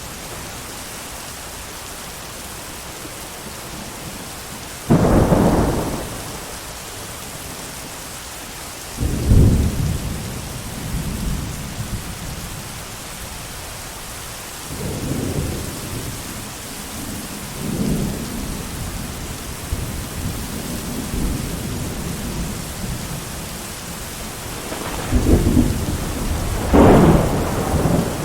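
Steady heavy rain with rolls of thunder breaking over it: a loud clap about five seconds in, another a few seconds later, softer rumbles through the middle, and two more loud peals near the end.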